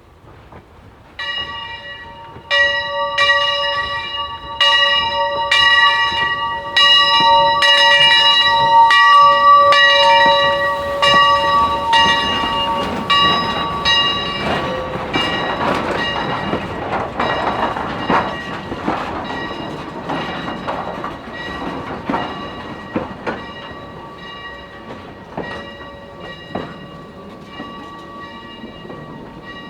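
Steam locomotive bell ringing steadily, about one stroke a second, on a replica 1868-style 4-4-0 passing by, with the broad rumble of the train swelling in the middle and fading as the bell grows fainter.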